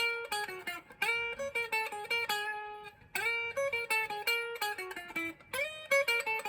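Gibson 1958 Les Paul Standard VOS electric guitar on its neck pickup, playing single-note lead phrases through an amplifier. Several notes are bent up in pitch.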